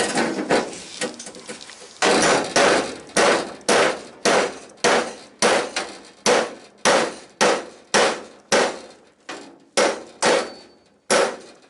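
Hammer blows on the steel toe board panel of a classic Mini: a quick flurry of lighter taps, then a steady run of sharp metallic strikes about two a second, each with a short ring. The hammering knocks the freshly tacked panel in tight before it is welded further.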